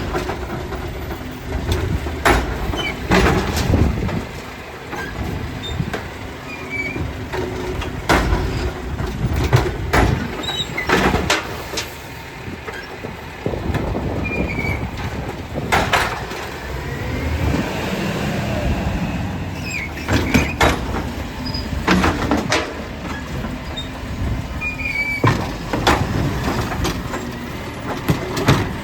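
Glass-collection garbage truck running, with repeated sharp crashes and clanks over its engine. A whine rises and falls in pitch about seventeen seconds in.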